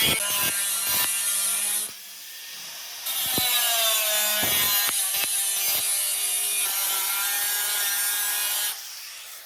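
A power tool working material in two long passes, with about a second's break around two seconds in. It gives a steady whine with a bright hiss on top.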